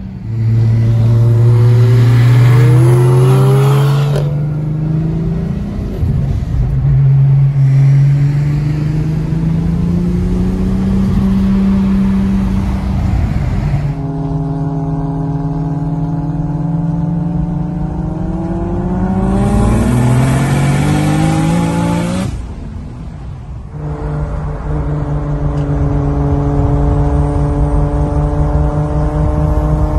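A race car engine pulling hard, its pitch climbing, with gear changes about four seconds and fourteen seconds in. Around 22 seconds the revs fall away as the throttle is lifted, then the engine holds a steady pitch.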